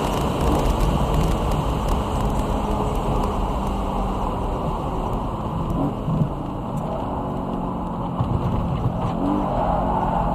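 BMW E92 M3's V8 engine running on track, its pitch climbing near the end as the car accelerates.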